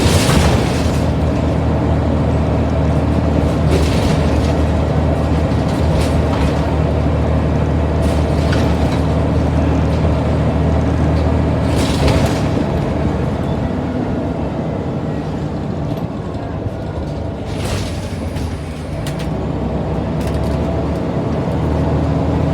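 Scania N94UD Omnidekka double-decker bus engine running steadily under way. Its drone eases and dips in level for a few seconds past the middle, then picks up again near the end. Short hissing or rattling bursts come every few seconds.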